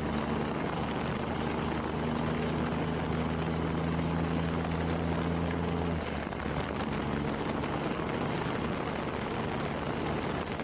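Heavy truck's diesel engine running with a steady drone. Its note changes about six seconds in, and a faint high whine rises after it.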